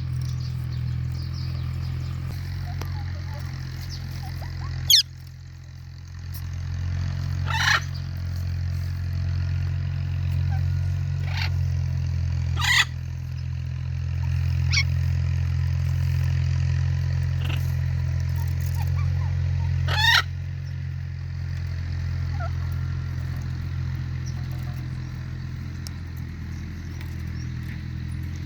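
Pet parrots giving short, sharp squawks every few seconds, about seven in all, over a steady low hum.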